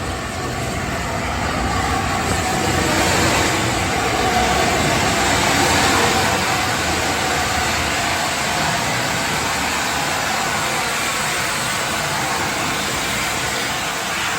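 Steady rushing noise of a steam-hauled train on the move, swelling slightly a few seconds in.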